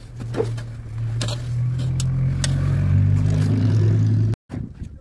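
A car engine running close by, growing louder over a few seconds, with a few scrapes of snow shovels. The sound cuts off abruptly about four seconds in.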